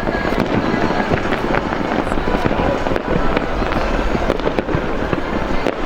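Fireworks going off in a dense, unbroken barrage of bangs and crackling.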